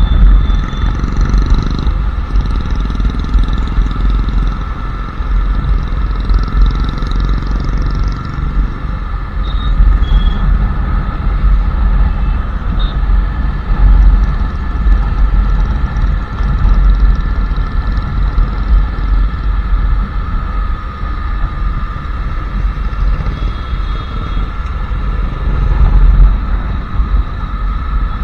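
Royal Enfield Classic 350's single-cylinder engine running on the move, a steady low rumble that swells and eases with the throttle.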